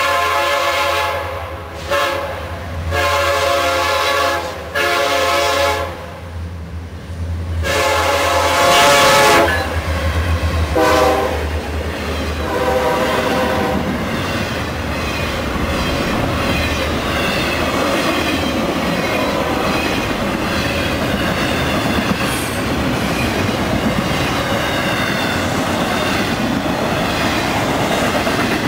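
Horn of a Florida East Coast freight train led by EMD SD70M-2 diesel locomotives, sounding a series of blasts for a grade crossing over a low diesel rumble for about the first dozen seconds. Then the train's intermodal cars roll past with steady wheel-and-rail noise.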